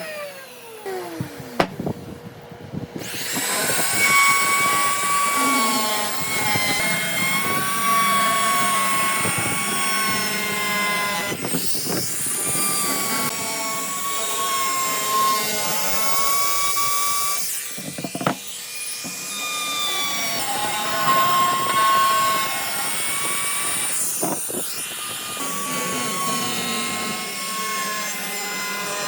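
A high-speed electric power tool, its motor whining as it cuts or grinds into wood. The pitch sags and wavers under load, with a few brief lifts off the work. At the very start a whine falls away as the tool spins down, then the tool starts up again.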